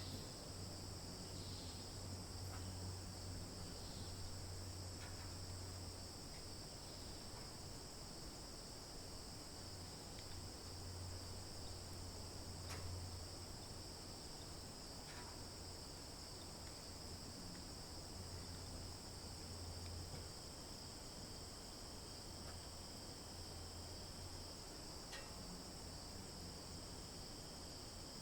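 Steady high-pitched insect chorus, like crickets trilling, with a low hum underneath and a few faint short chirps here and there.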